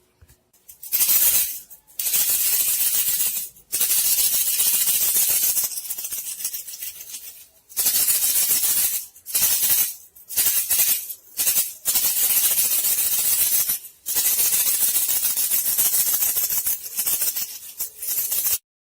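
Rattling, hissing shaker sound used as a lure call for bandicoot rats, played in bursts of one to several seconds with short breaks between them. It stops abruptly near the end.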